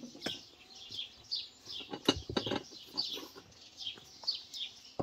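A bird singing short, high, falling chirps over and over, about twice a second. A few sharp knocks, loudest around two seconds in, come from the bread and plate being handled.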